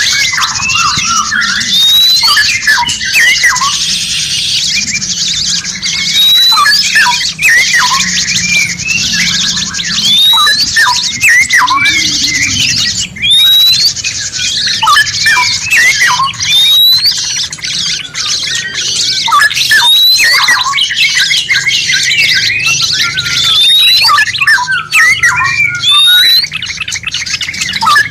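A dense chorus of songbirds calling and chirping over each other, with a short rising whistle that repeats about every two seconds.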